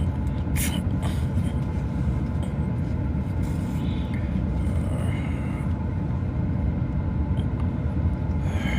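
Steady low rumble of a JR rapid commuter train running along the track, heard inside a passenger car, with a click about half a second in and faint brief high squeals near the middle and the end.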